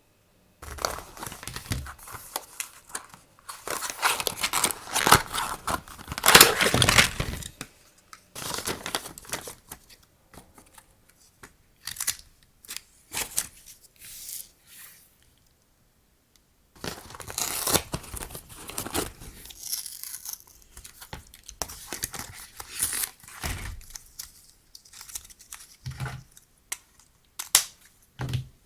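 Packaging being torn open and crinkled by hand: irregular bursts of tearing and rustling, loudest about six seconds in, with a short pause a little past the middle.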